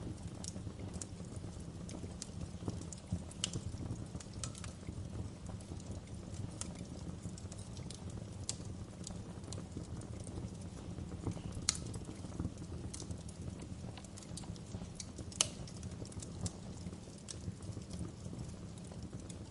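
Wood fire burning in a fireplace: a steady low rumble with scattered, irregular crackles and pops, two of them louder, about twelve and fifteen seconds in.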